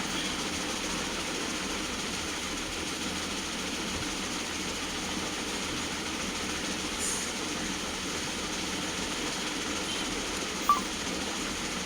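Steady background noise with a low rumble and no clear pitch, with one short click near the end.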